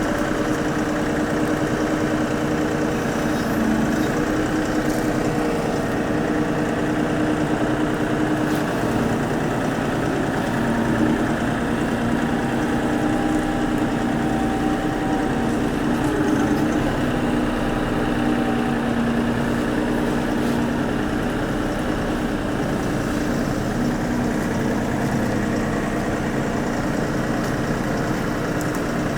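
Tractor engine running steadily, its pitch rising and falling slightly.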